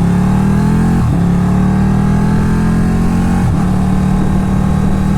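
Sportbike engine accelerating: its pitch climbs, drops with a quick upshift about a second in, climbs again, drops with another upshift at about three and a half seconds, then holds steady.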